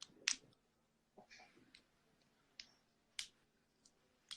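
A few faint, sharp clicks spread through near silence.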